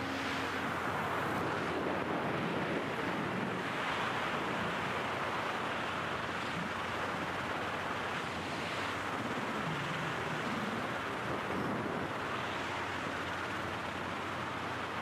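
Steady rushing wind noise with no clear rhythm or events.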